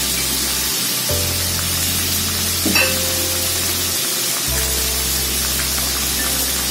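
Squid, shrimp and onion frying in hot oil in a wok: a steady sizzle.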